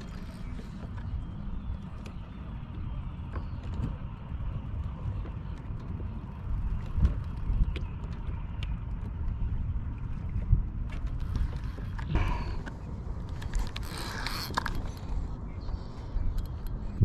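Steady low rumble of wind and water around a fishing kayak, with scattered small clicks and two brief rushing, hissing noises near the end.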